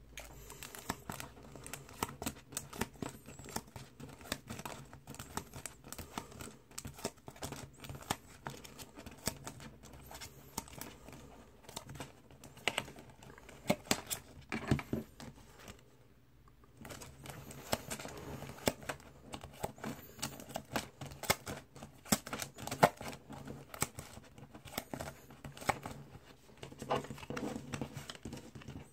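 Packaging being handled and unwrapped at close range: plastic or paper crinkling and tearing, with many quick irregular clicks and taps. There is a short pause about halfway through.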